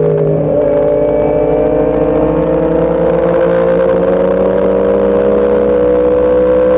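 Motorcycle engine pulling hard under throttle. A brief drop in pitch about half a second in, like an upshift, is followed by a long, slow rise in revs.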